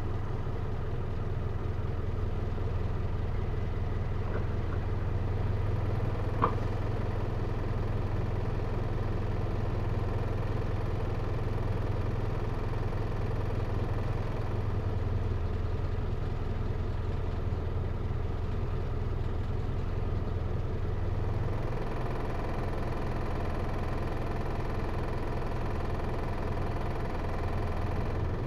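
Hino Liesse microbus's J05C diesel engine running steadily at low revs, heard from inside the cabin. A single short click comes about six and a half seconds in.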